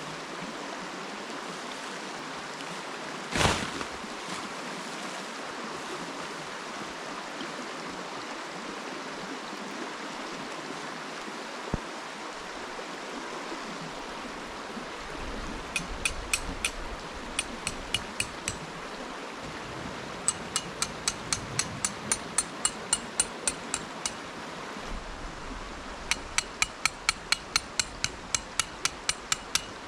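Hammer driving metal tarp stakes into the ground: runs of sharp, ringing strikes at about four a second, starting about halfway in, over the steady rush of a flowing stream. One single sharp knock comes a few seconds in.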